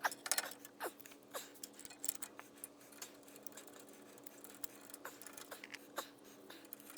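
Small metal parts clicking, tapping and rattling as they are handled and fitted back onto a 1967 Volkswagen chassis, with a faint steady hum underneath.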